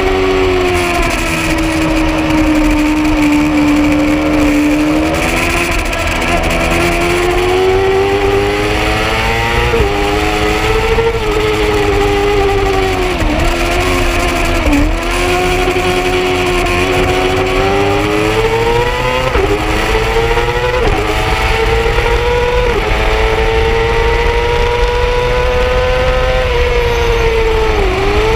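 Yamaha R6 sportbike's inline-four engine at high revs on a race track, its pitch climbing again and again with abrupt drops at gear changes and a few brief dips when it shuts off for corners.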